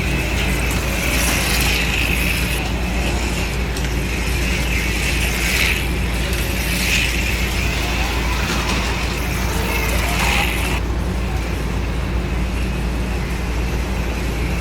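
AFX HO-scale slot cars running around the track, their small motors and gears whirring and the pickups rattling on the rails, swelling briefly each time a car passes close, about four times. A steady low hum runs underneath.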